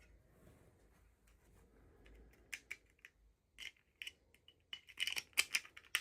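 Short crisp clicks and crackles of packaging being handled and opened, sparse at first and coming quicker and louder near the end.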